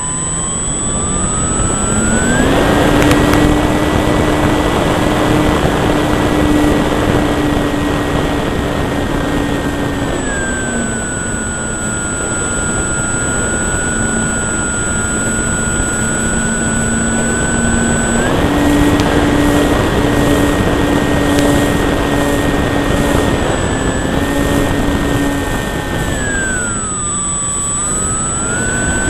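Electric motor and propeller of a Durafly Cessna 182 RC model plane, close up from the cowl, with rushing air. The whine climbs over the first couple of seconds, drops to a lower pitch about ten seconds in, climbs back near eighteen seconds, and dips and rises again near the end with throttle changes.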